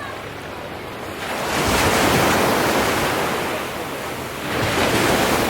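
Ocean waves breaking and washing up: one surge builds about a second in and slowly eases, and a second swells near the end.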